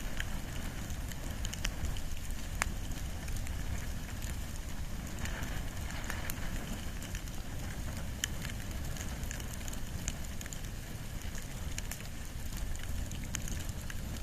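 Wood and bamboo burning in a bonfire, with irregular sharp crackles and pops over a steady low rumble of the flames.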